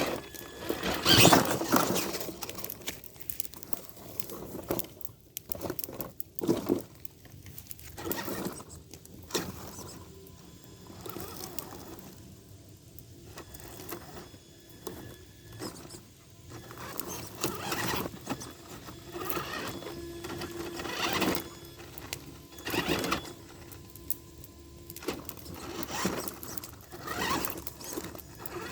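Tamiya TXT-2 RC monster truck's electric drivetrain whining and squealing in short, irregular throttle bursts as it crawls.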